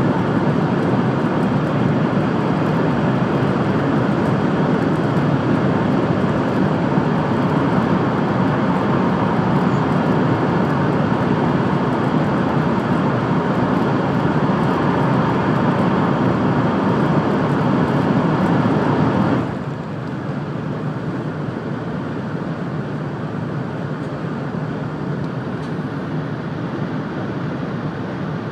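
Running noise of a 700 series Rail Star Shinkansen at speed, heard inside the passenger cabin: a loud, steady roar inside a tunnel that drops suddenly about two-thirds of the way through as the train leaves the tunnel, then carries on as quieter, steady open-air running noise.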